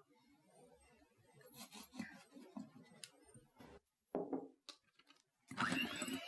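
Faint scattered taps and rustles as more sugar goes into the egg whites. About five and a half seconds in, whisking of the meringue starts again with a steady, louder whirring that rises in pitch as it gets going.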